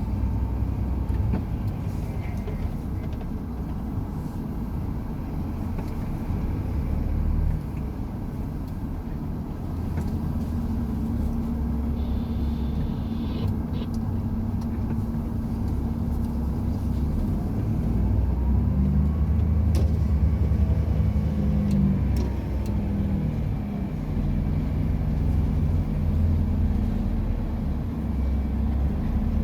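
Truck's diesel engine running under way, with road noise. The engine note shifts a few times.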